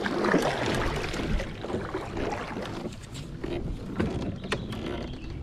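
Kayak moving on the water: water washing and sloshing around the hull, with scattered light knocks and clicks.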